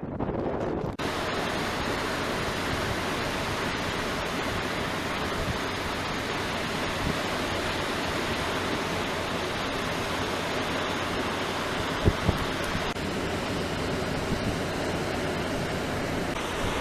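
Steady rushing noise of surf and wind at the beach, with wind buffeting the microphone. There are a couple of brief low thumps about twelve seconds in.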